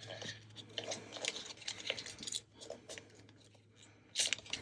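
Faint scattered taps, clicks and rustles of hands handling paper and craft materials on a work table, with a slightly louder rustle near the end over a faint steady low hum.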